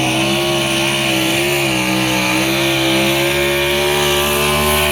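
Engine of a pulling vehicle running at high, fairly steady revs, its pitch wavering slightly up and down.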